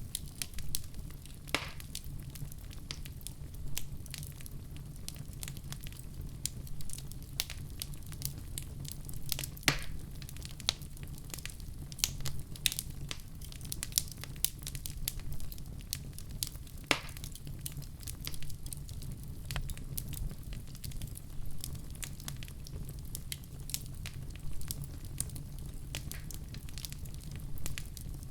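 Fireplace fire crackling, with irregular sharp pops over a steady low rumble of the flames.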